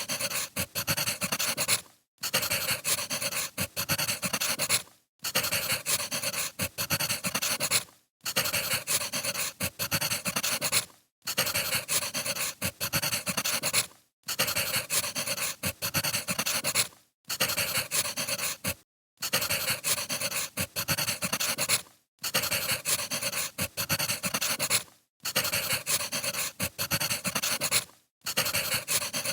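Firewood burning with dense crackling and snapping, coming in stretches of about three seconds with a brief silent gap between each.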